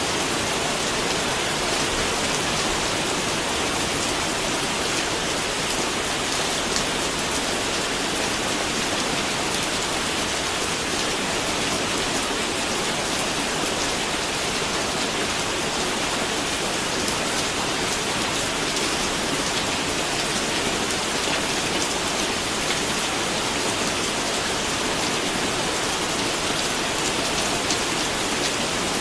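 Steady, heavy rain falling and pattering on a surface, an even hiss with fine drop ticks and no let-up.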